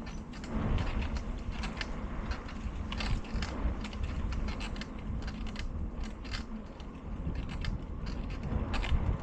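A bicycle being ridden, with irregular clicks, creaks and rattles from the bike's mechanism, over a low rumble of wind on the microphone.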